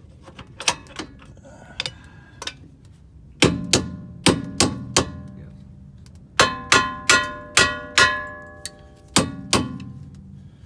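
Hammer striking steel suspension parts, tapping to knock the rear upper control arm into line. A few light knocks, then bursts of about five sharp blows each, every one leaving a ringing metallic tone.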